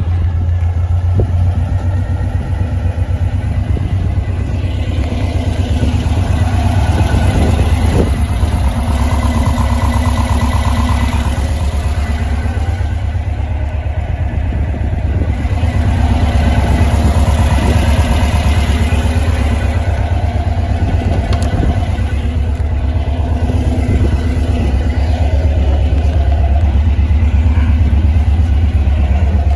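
A 1968 speedster's engine running steadily as the car moves around a lot, its pitch drifting up and down with the throttle and growing louder about halfway through.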